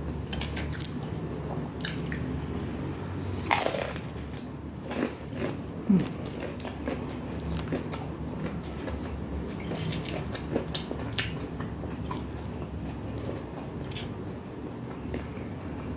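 Close-miked biting and chewing of crispy fried kepok banana (pisang goreng kipas): crunchy bites and wet chewing, with a sharp crunch about three and a half seconds in.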